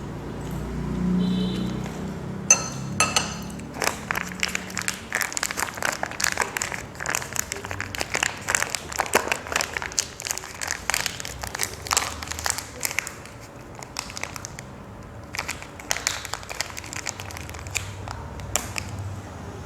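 Rapid crinkling and crackling of rice paper and fresh leaves being handled while a fresh spring roll is wrapped by hand, in dense runs with a short lull near two-thirds of the way through.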